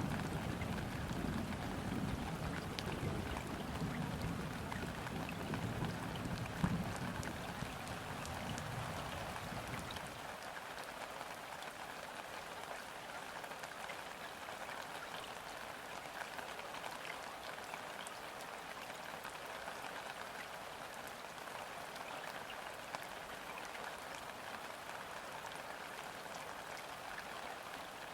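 Steady rain falling onto river water, countless drops striking the surface. A low distant thunder rumble lies under the rain at first and dies away about ten seconds in.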